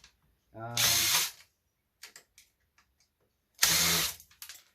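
Power drill-driver running in two short bursts, one about a second in and one near the end, each spinning up in pitch.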